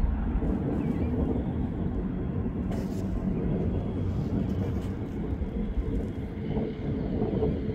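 Steady rumble and clatter of a freight train's coal hopper cars rolling away on the track, easing off slightly as the train recedes. A faint steady squeal rides over the rumble, and a single click comes about three seconds in.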